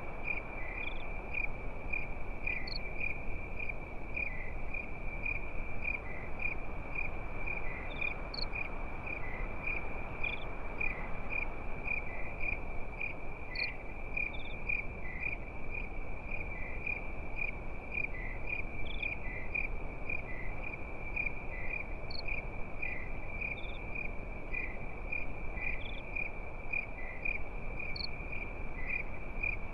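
Crickets chirping in a steady high-pitched pulsing trill, with faint higher chirps here and there, over a low steady hiss.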